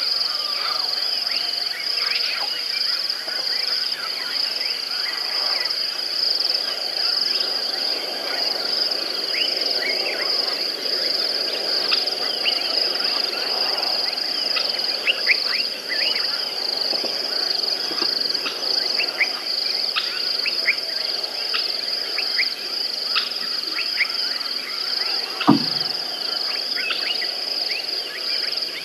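Outdoor ambience dominated by a steady high-pitched insect drone, with many short bird chirps scattered through it. A single sharp knock sounds near the end.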